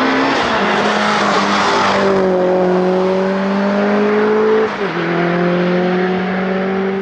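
Mitsubishi Evo 8 RS hillclimb car's 2-litre turbocharged four-cylinder engine pulling hard under load, its pitch climbing steadily. About two-thirds of the way through, the pitch drops suddenly at an upshift, then climbs again.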